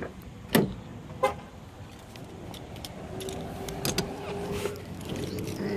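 Three sharp knocks in the first second and a half, then lighter clicks and rattling with a faint steady hum partway through, like objects being handled.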